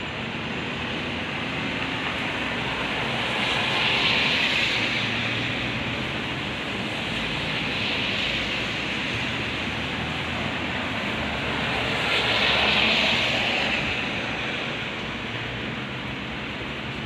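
Heavy rain, a steady hiss that swells louder and eases back three times.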